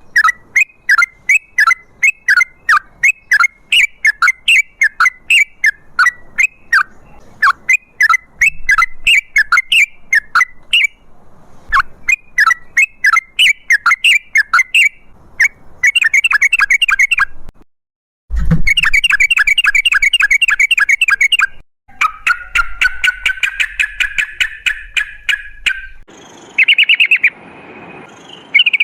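Yellow-vented bulbul (trucukan) singing a long run of short, rapidly repeated chirping notes, a few each second. The song breaks off abruptly at several points and resumes in a faster or different pattern.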